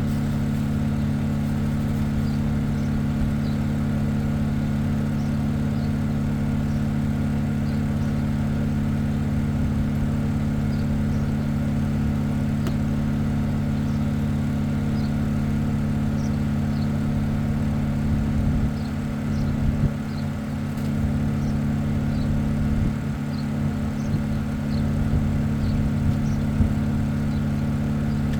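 Steady machine hum made of several constant low tones. About two-thirds of the way in, it is joined by irregular low rumbling and knocks.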